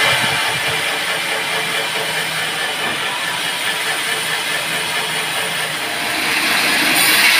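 Band sawmill running with a steady mechanical noise, growing louder and brighter near the end.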